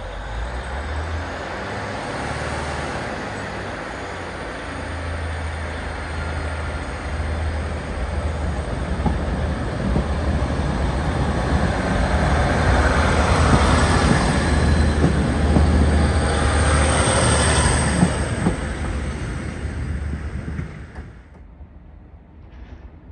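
A train passing at the station: a rumble and rush of wheels on rail that builds steadily, is loudest in the middle, then dies away fairly suddenly near the end.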